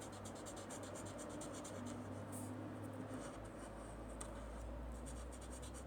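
Felt-tip marker drawing on paper: faint, quick, repeated short strokes scratching across the sheet, with a couple of brief pauses.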